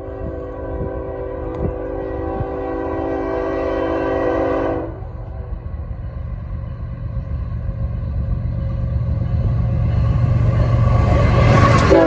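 Norfolk Southern diesel locomotive sounding its horn in one long chord for about five seconds, then the low rumble of the engine growing louder as the train approaches. The horn starts again right at the end.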